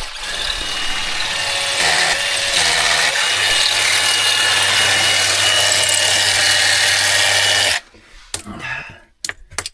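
Power drill running steadily while boring a hole into rock for an anchor bolt, stopping abruptly near the end.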